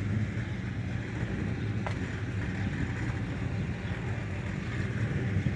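A car engine running steadily nearby, a low rumble, with a single sharp click about two seconds in.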